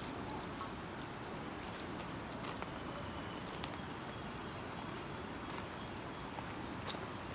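Wood campfire crackling, with scattered sharp pops and ticks over a steady rushing background noise.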